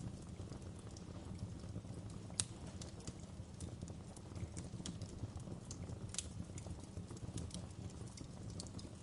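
Wood fire crackling in a fireplace: irregular sharp pops and snaps over a steady low rumble of the flames, with one louder pop about two and a half seconds in.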